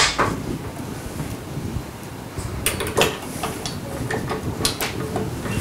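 Stainless steel bowl being seated on a bowl-lift stand mixer and the wire whisk fitted onto the mixer head: a handful of separate metal clicks and knocks.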